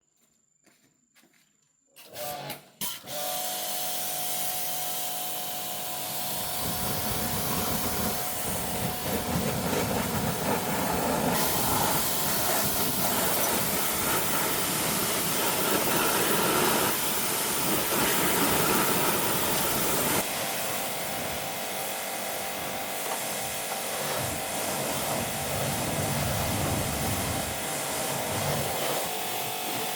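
A few faint clicks, then about two seconds in a workshop machine starts and runs continuously with a loud hiss and a steady hum.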